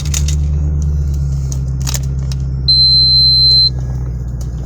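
Car engine idling steadily just after being started. A single high electronic beep about a second long sounds a little under three seconds in, with a few light clicks around it.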